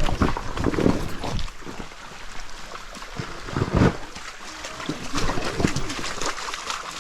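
Water splashing and trickling, with irregular knocks and thumps, louder in the first second and again a little before the midpoint.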